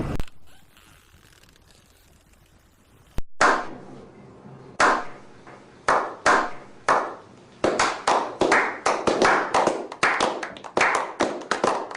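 After a lull of about three seconds, a series of sharp hand claps begins: a few spaced out at first, then coming quicker and closer together.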